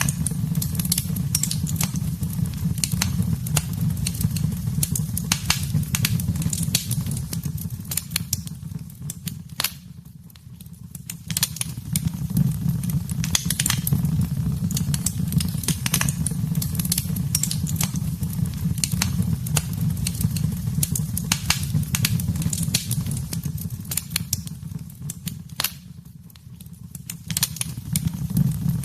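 Wood fire crackling and popping in a fireplace, with many sharp pops over a steady low rumble of flames. The sound dips briefly twice, about ten seconds in and near the end.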